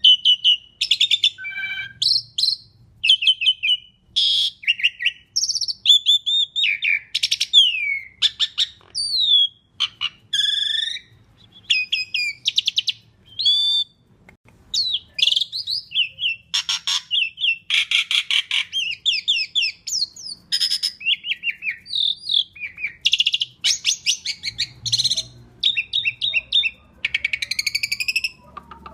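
Asian pied myna (pied starling) singing a long, unbroken run of varied phrases: sliding whistles, fast rattling trills and harsh chattering notes in quick succession.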